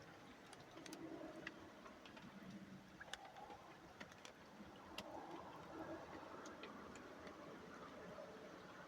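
Near silence: faint, irregular clicks and ticks over a low background hiss.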